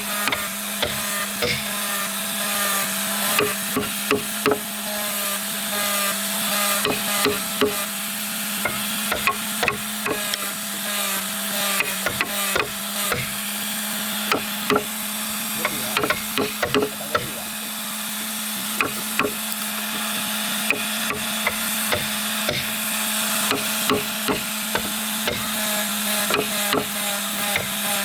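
Woodworking with a machine humming steadily under a continuous grinding haze, and many irregular knocks and clicks of wood being worked.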